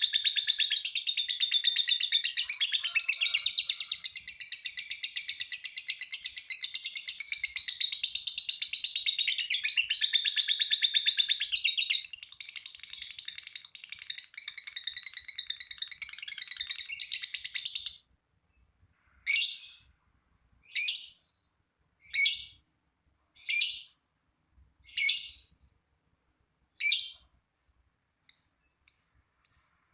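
Lovebird singing 'ngekek': a long, rapid, unbroken chattering trill that cuts off abruptly about 18 seconds in. Then come single short calls about every second and a half, and quicker short chirps near the end.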